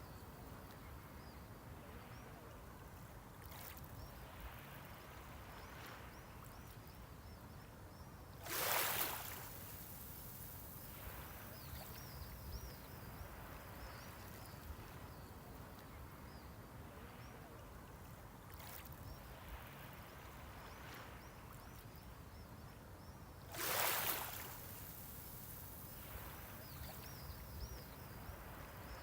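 Small waves breaking on a beach shoreline over a steady low surf rumble, with two louder breaks about fifteen seconds apart and softer washes of water between them.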